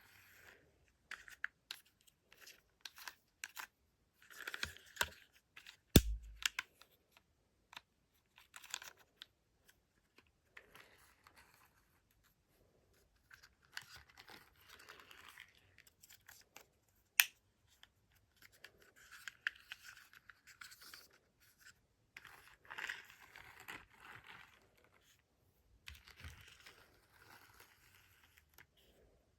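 Close handling noises: intermittent scraping and rustling with sharp clicks, and one loud knock about six seconds in.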